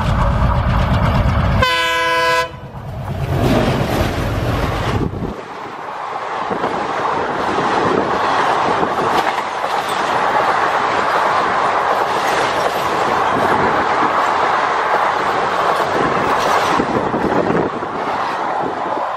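ALCO WDM-3D diesel locomotive passing at speed with its engine under power. It sounds a short horn blast about two seconds in. From about five seconds in, its coaches rush past with a steady rolling roar and wheel clatter over the rail joints.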